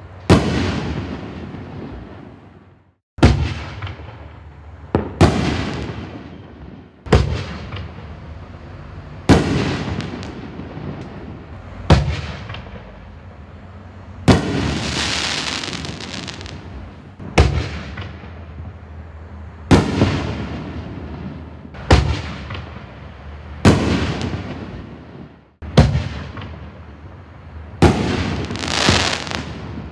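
Black Cat Diablo 60-gram fireworks cake firing its aerial shells one after another: about thirteen sharp bangs, roughly one every two seconds, each trailing off in a rumbling echo. Twice a bang is followed by a second or two of hissing crackle.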